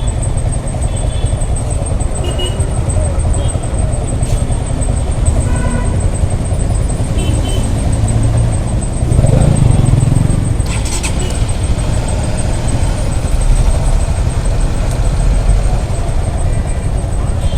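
Congested city traffic heard from a motorcycle: a steady low rumble of engines, with short horn beeps several times and a nearby vehicle's engine swelling louder about nine seconds in.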